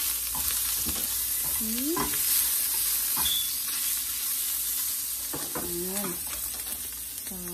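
Sausage links sizzling in a frying pan as they are stirred and turned with a spatula that knocks against the pan now and then.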